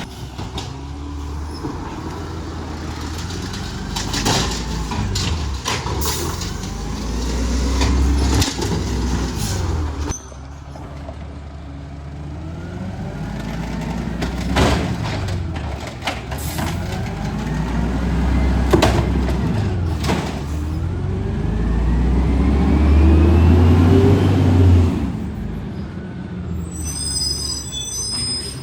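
Garbage truck engine revving up and down over and over, with sharp knocks now and then. It is loudest about 22 to 25 seconds in, and there is a brief high squeal near the end.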